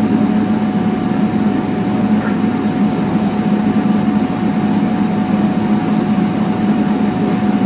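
Steady drone of a Boeing 777-300ER's running GE90 engines and air systems heard inside the passenger cabin, a low hum with a faint steady whine above it.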